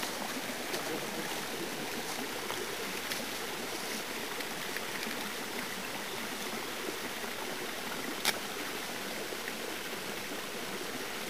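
Steady rush of running water from a forest stream, with one sharp click a little past the middle.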